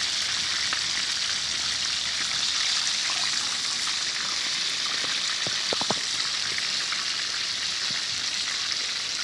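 Chicken pieces deep-frying in hot oil in a discada: a steady sizzling hiss.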